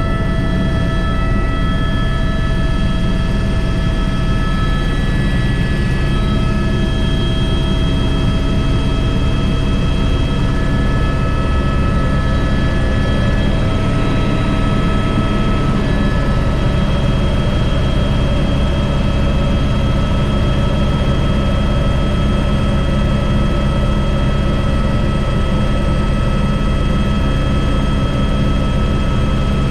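Airbus H125 (AS350 B3) helicopter running steadily in flight, its single turboshaft and rotors giving a dense low drone under a steady high whine of several tones.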